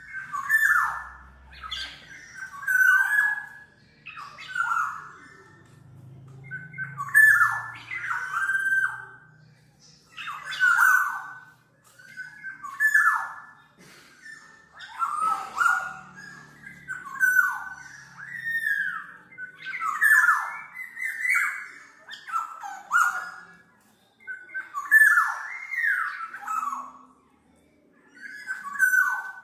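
Black-naped oriole calling over and over: short notes that slur downward, coming singly or in close pairs about every one to two seconds.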